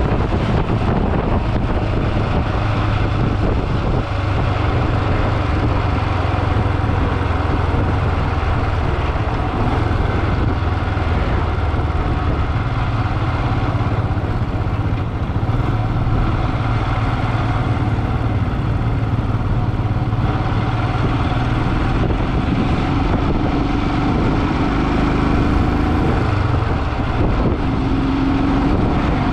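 Motorcycle engine running steadily while riding, under a constant rush of road and wind noise.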